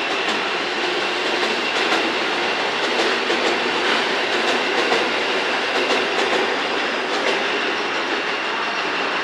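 Trains rolling slowly over the station's points and rail joints: a steady rumble with repeated wheel clacks and a thin, high wheel squeal.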